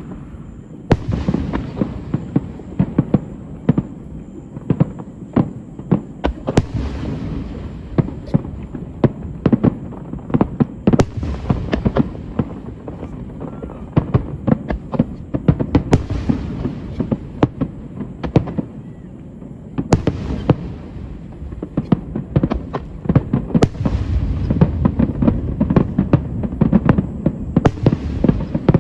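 Fireworks display: a continuous run of sharp bangs and crackles, with a louder burst every four to five seconds.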